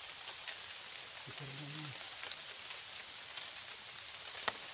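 Rain falling steadily: an even hiss with scattered ticks of drops landing, one sharper drop near the end.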